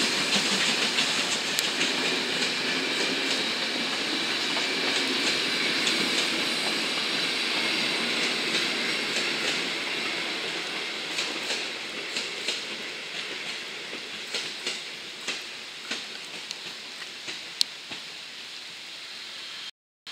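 Railway carriages of a steam-hauled heritage train, including Wagons-Lits coaches, rolling past on the rails, with wheels clicking over the rail joints. The rolling sound fades as the last coach goes by and the train draws away, leaving a few sharp clicks near the end.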